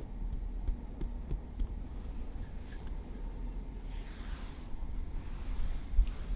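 Small wooden stick making light, crisp ASMR taps and clicks, then a soft scraping, brushing sound about four seconds in, over a steady low rumble.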